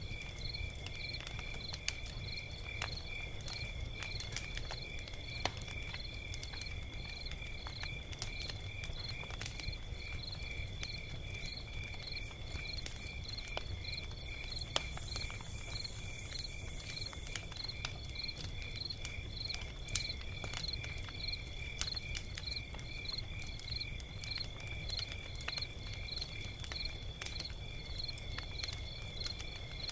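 Log fire crackling with scattered sharp pops, over crickets chirping in a steady, even rhythm with a constant high ringing tone.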